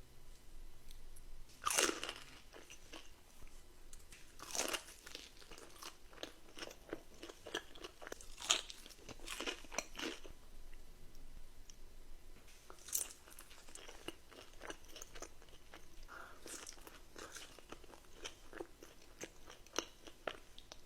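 Close-miked eating: a person biting into crunchy food and chewing, with a sharp crunch every few seconds and softer chewing crackles between.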